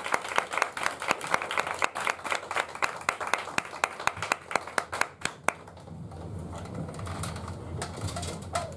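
Audience applauding, the claps thinning out and dying away about halfway through, leaving a quiet low hum.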